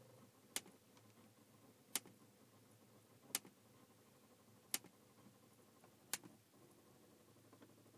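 Five sharp single clicks, evenly spaced about a second and a half apart, from a BMW that won't start; no engine cranking follows any of them.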